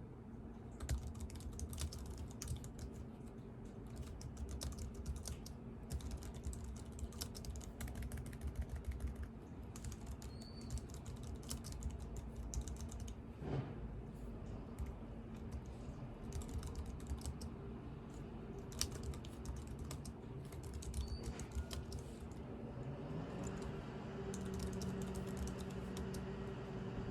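Computer keyboard typing: irregular runs of keystrokes with short pauses. Near the end a low hum starts, rises in pitch, then holds steady under the typing.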